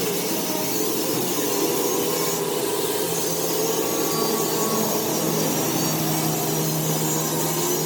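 Electric power tool motor running steadily while working metal, a constant hum whose pitch drifts slightly over a rough rubbing hiss.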